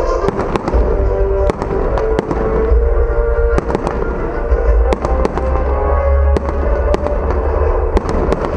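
Fireworks going off in quick, irregular succession: many sharp bangs and pops over a deep rumble, with music playing underneath.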